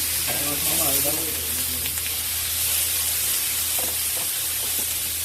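Pork belly and gabrisal sizzling on a hot iron griddle, a steady frying hiss.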